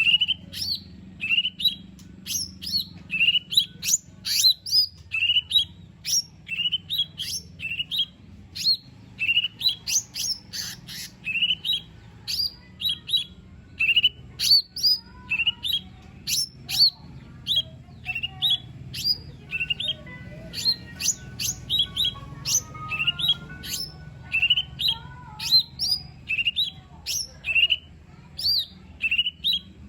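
Cucak ijo mini, a small green leafbird, calling in a fast run of short upward-sweeping chirps, about one or two a second, mixed with sharp clicky notes. Quieter, lower whistled phrases weave in through the middle.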